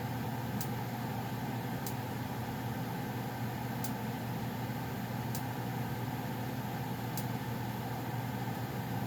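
2011 Goodman gas furnace's blower running steadily after the burners have shut off, a constant low hum with air rush. Five faint sharp ticks sound at uneven intervals over it.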